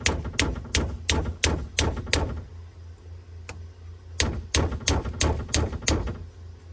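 Sharp, regular taps, about three a second, as a new plastic pool-robot impeller is driven onto its tight-fitting motor shaft. The taps come in two runs with a pause of about two seconds between them.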